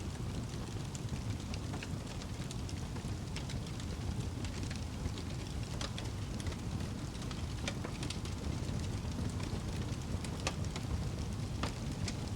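Wood fire burning in a fireplace: a steady low rumble of flame with irregular crackles and sharp pops, a few louder pops in the second half.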